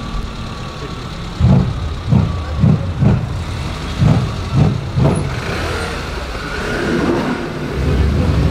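Mercedes-AMG E63 S twin-turbo V8 through a SuperSprint exhaust, revved in about seven short throttle blips, then building steadily louder toward the end as the engine is held under throttle.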